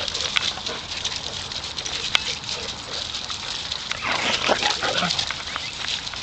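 Several dogs barking over one another, with a louder flurry of barks about four seconds in.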